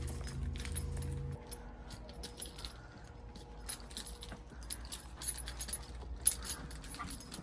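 A car engine idling, switched off about a second in, followed by light metallic jingling and clicking, like keys being handled, with one sharper click near the end.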